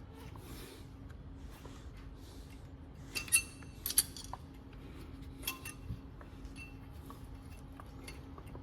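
Sharp metal clinks with a brief ring, the two loudest about three and four seconds in, followed by a few lighter taps; a faint steady hum runs underneath.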